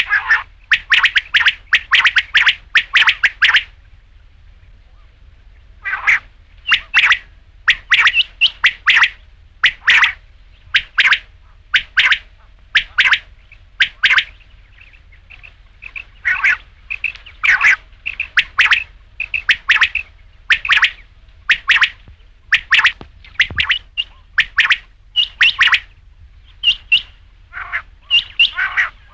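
Rain quail calling: short, sharp whistled notes repeated in quick runs, about one to two a second, with a brief pause about four seconds in.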